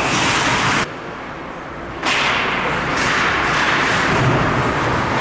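Game noise in an ice hockey arena: a steady rush of noise that drops away abruptly for about a second, about a second in, then returns.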